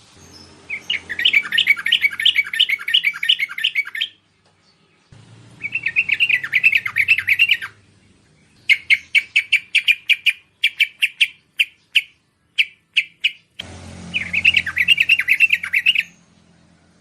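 Bulbul (merbah) calling: four bursts of fast, chattering notes. The third burst breaks into separate notes that slow down and spread out.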